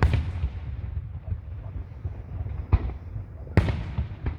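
Aerial fireworks going off: a bang right at the start, another just under three seconds in, and the loudest about three and a half seconds in, each trailing off in a fading crackle, with a few smaller pops after. A steady low rumble runs underneath.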